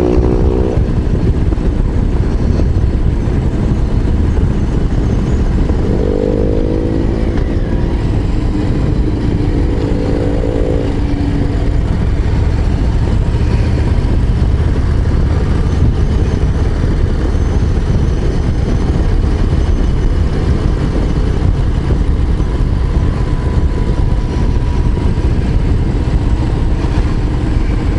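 Harley-Davidson Low Rider ST's Milwaukee-Eight 117 V-twin running under way, loud and steady, with the engine note climbing as it pulls about five to seven seconds in.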